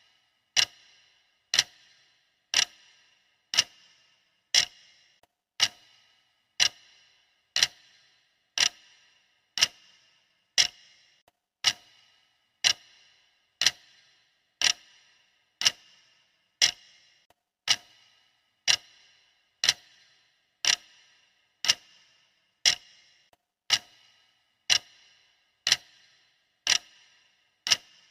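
Clock ticking sound effect: one sharp, identical tick about every second, perfectly steady, each with a brief metallic ring.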